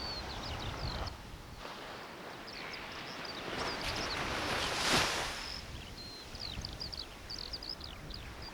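Small birds chirping and twittering over seaside ambience, with a wave building and breaking about five seconds in.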